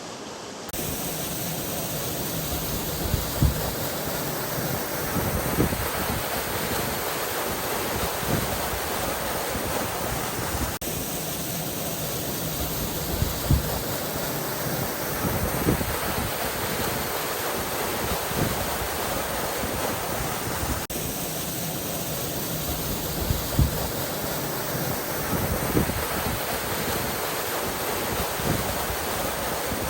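Small waterfall running at low flow, a steady rush of falling water, with wind buffeting the microphone in frequent low thumps.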